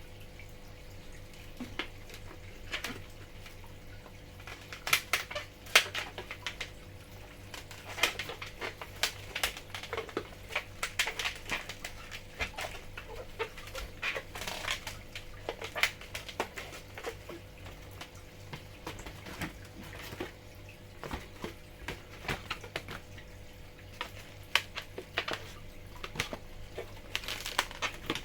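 Rubber balloons squeaking and rubbing in the hands, in irregular sharp squeaks and crackles, as they are twisted and fitted together into a balloon aeroplane. A faint steady hum lies underneath.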